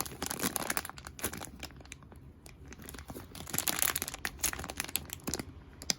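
Crinkly plastic squishy packaging being handled, with dense irregular crackling and rustling.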